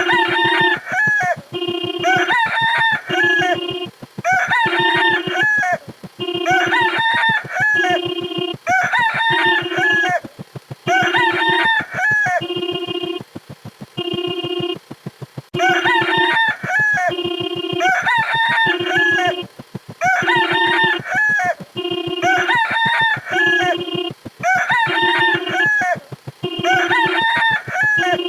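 Rooster crowing sound effect played over and over, one cock-a-doodle-doo about every second and a half, with a short steady tone between crows.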